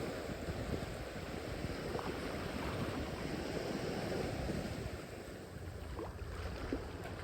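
Small sea waves washing in, with wind on the microphone.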